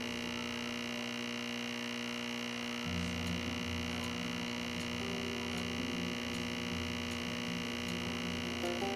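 Nespresso capsule machine's pump humming steadily as it pushes water through the capsule mid-brew; the low part of the hum grows fuller about three seconds in.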